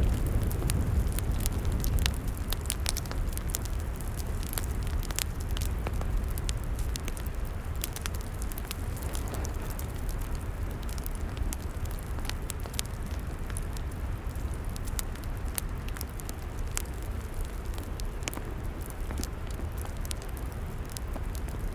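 Log fire crackling, with many irregular sharp pops and snaps over a steady low rumble that is a little louder in the first two seconds.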